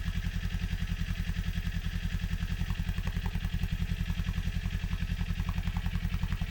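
Kawasaki Z400's parallel-twin engine idling, an even low pulse that holds steady.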